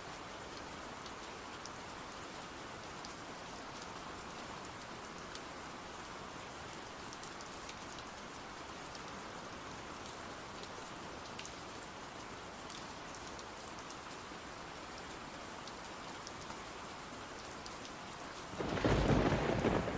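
Steady rain with scattered small drip ticks. Near the end a thunderclap breaks in: a sudden, loud, low rumble.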